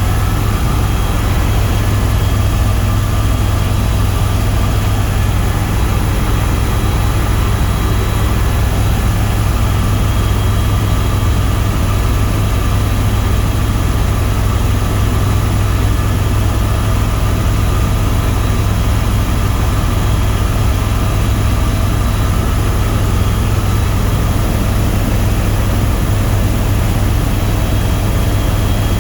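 Tour helicopter in steady cruising flight: a loud, even low drone of rotor and engine, with a few thin steady high-pitched tones above it.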